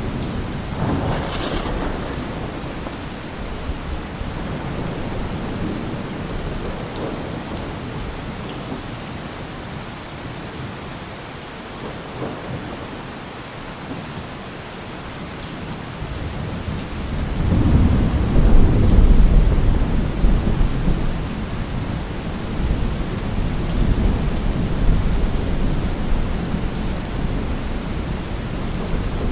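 Thunderstorm: steady heavy rain with rolling thunder. There is a short rumble near the start, and a louder, longer roll of thunder begins a little past halfway and fades slowly.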